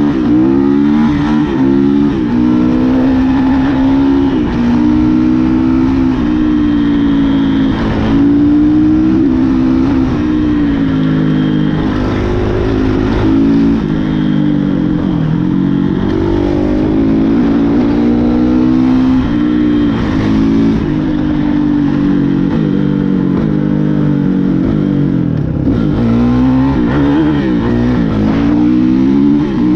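Dirt bike engine running hard under a rider, its pitch climbing and dropping over and over as it accelerates, shifts and backs off, with a deep drop about halfway through and another near the end.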